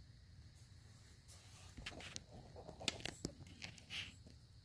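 Faint scattered clicks and light taps, about half a dozen spread irregularly, over a low steady background hum.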